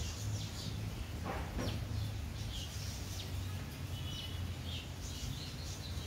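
Small birds chirping repeatedly in the background, short high calls scattered through, over a steady low hum. A brief scraping handling noise about a second and a half in.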